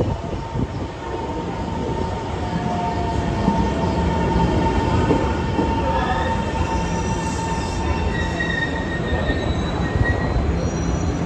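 A Taiwan Railway EMU700 electric train pulling in alongside the platform and slowing to a stop, with a steady rumble and several thin, high squealing tones that come and go.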